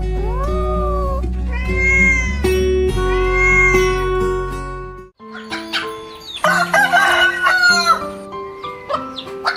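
Background music with animal calls over it: three drawn-out, gliding cat meows in the first half. After a sudden break about five seconds in, a longer, harsher call follows, and short clucking calls come near the end.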